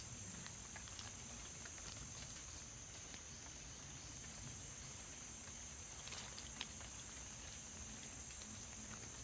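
Tropical forest ambience after rain: a steady, high-pitched insect drone over a low background rumble, with scattered small clicks and ticks and one sharper click about six and a half seconds in.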